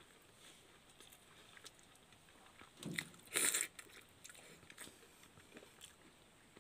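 A person eating pakhal (rice soaked in water) and chicken by hand: soft chewing with small wet mouth clicks, and one louder, brief noisy sound about three seconds in as a mouthful is taken.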